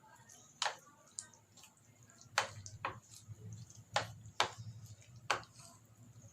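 Chicken being mixed into a thick cream marinade in a mixing bowl: short, irregular clicks and taps against the bowl, about seven of them, over a faint low hum.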